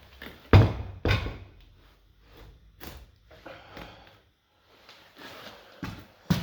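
Heavy thuds and knocks as a vintage sewing machine is moved and set down: a loud thump about half a second in, a second thump just after, lighter knocks, and a sharp knock near the end.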